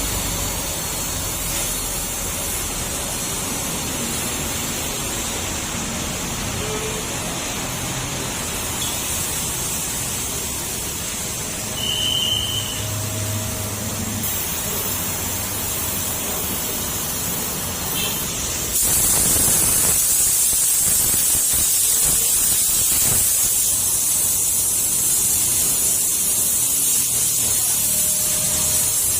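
High-pressure car-wash water spray hissing steadily against a car. It gets louder about 19 seconds in.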